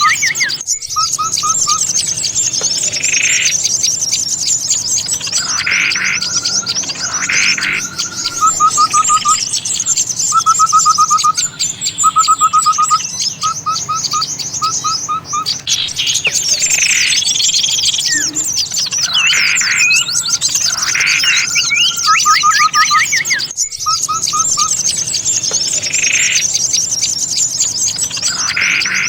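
Bird-lure recording of agitated small songbirds: a dense chorus of high chirping and chattering with repeated short runs of quick notes and louder calls between them. It is used to draw small birds in for trapping. The track loops, breaking off briefly and restarting about every 23 seconds.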